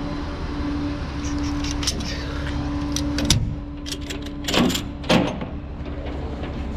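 A tow truck running with a low rumble and a steady hum, with several sharp metallic clanks and clicks about halfway through.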